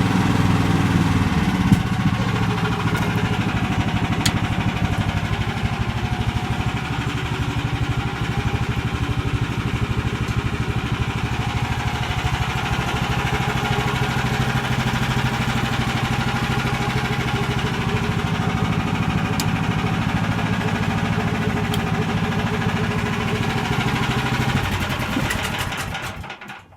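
Engine of a homemade motorized snow tow, a 17 hp Lifan, running steadily, a little louder for the first second or two, then fading out near the end.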